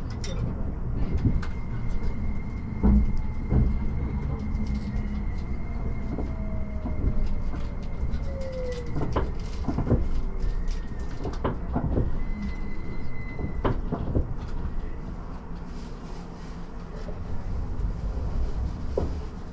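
Tobu Spacia X limited express electric train running, heard from inside the passenger cabin: a steady low rumble with scattered clicks and knocks from the wheels and track. A thin steady high whine runs through much of the first two-thirds, and a brief falling tone comes about eight seconds in.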